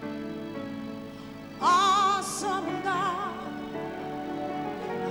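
Music: a singer comes in loudly about a second and a half in, holding notes with a strong vibrato over held accompanying chords.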